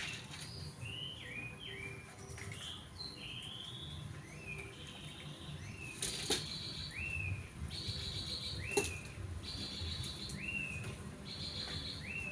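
Small birds chirping: short high notes that rise and fall, repeated about once a second, alternating with a scratchier buzzy call from about halfway through. Two sharp clicks stand out, one about halfway and one a little later.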